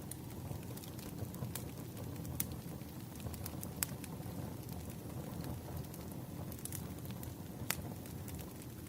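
Wood fire crackling: a steady low rush with a few sharp pops scattered through it.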